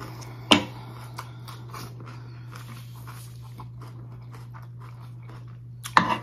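Close-miked chewing of a mouthful of crisp lettuce salad, with a sharp click about half a second in. Near the end a metal fork clinks and scrapes into the salad. A steady low hum lies under it all.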